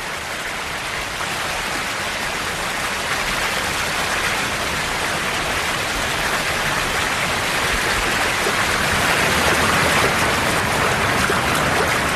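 Rushing river water, a steady rush that grows gradually louder.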